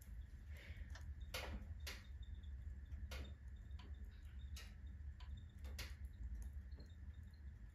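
Wood fire burning in a wood stove: a low steady rumble of the flames with irregular sharp crackles and pops from the burning logs, several loud ones at uneven intervals.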